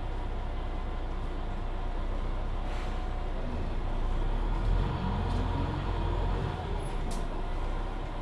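Interior sound of a Mercedes-Benz Citaro C2 Hybrid city bus under way: a steady engine drone, then from about three and a half seconds in the engine note grows louder and rises steadily in pitch as the bus accelerates. A brief hiss about three seconds in and a single click near the end.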